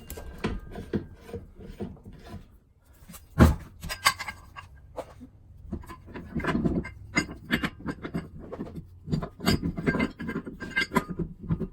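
Steel ball joint press parts and a Dana 60 steering knuckle clinking, knocking and scraping against each other as they are handled and positioned, with one loud knock about three and a half seconds in and a busier run of knocks in the second half.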